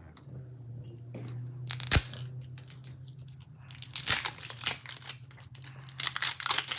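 Plastic packaging being handled and torn open, with irregular crinkling and crackling that gets denser in the second half and a sharp knock about two seconds in. A steady low hum runs underneath.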